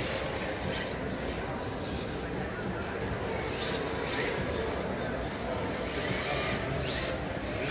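Indistinct crowd chatter in a large indoor hall, a steady murmur with a few faint high squeaks now and then.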